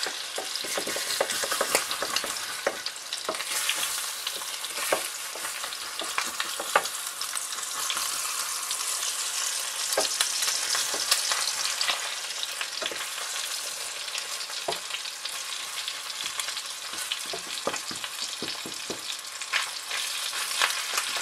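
Bacon and eggs frying in a pan, a steady sizzle, with a wooden spatula scraping and tapping against the pan as it is worked under the eggs.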